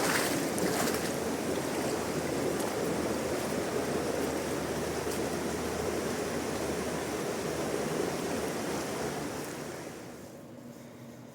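Fast-flowing river water rushing, a steady wash of noise that fades near the end.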